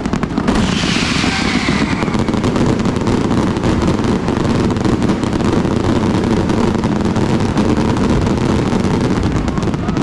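Fireworks firing in a dense, unbroken barrage of bangs, running together like machine-gun fire. A falling whistle sounds about a second in.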